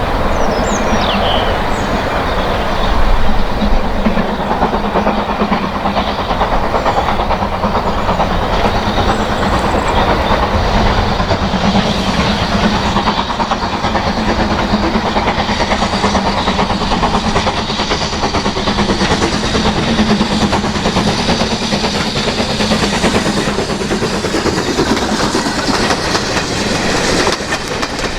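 Steam-hauled train running past on the line, its wheels clicking steadily over the rail joints.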